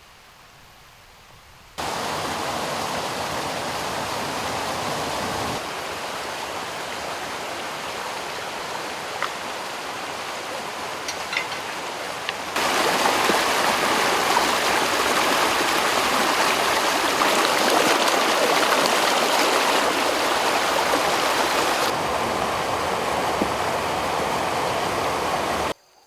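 Water rushing and splashing steadily down a small waterfall, in several stretches whose loudness jumps abruptly up or down from one to the next.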